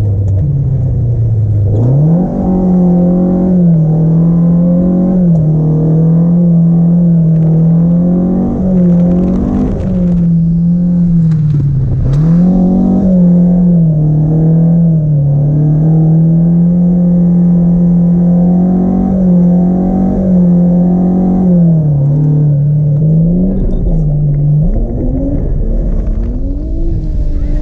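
A drift car's engine held at a steady high pitch, dipping briefly and climbing straight back every second or two as the throttle is worked through a slide.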